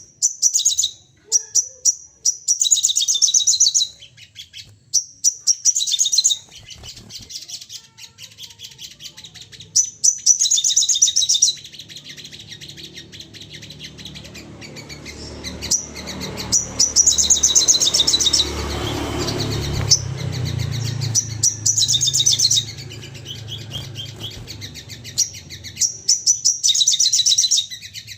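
Sogon birds calling in rapid-fire bursts of high, chattering chips, each run lasting a second or two, repeated again and again. A low rumble sits under the calls in the middle.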